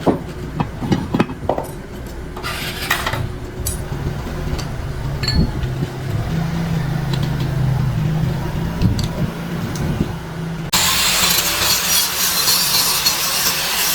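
Workshop sounds from work on a machine: scattered metal knocks and clinks, a low hum, then a loud, steady, rasping power-tool noise that starts abruptly near the end.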